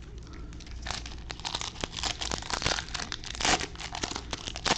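Crinkling of a foil trading-card pack wrapper being handled and torn open: dense, irregular crackling that grows louder about a second in, with the loudest crackles near the end.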